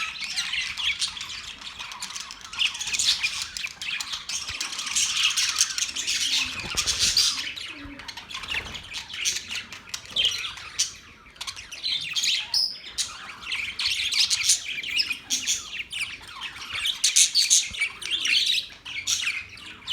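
Australian parrots chattering: a dense run of overlapping high chirps and squawks, easing briefly about halfway through.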